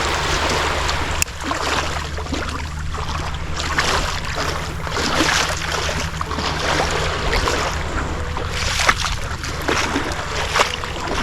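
Sea water splashing and lapping in irregular bursts around a paddleboard, with wind rumbling on the microphone.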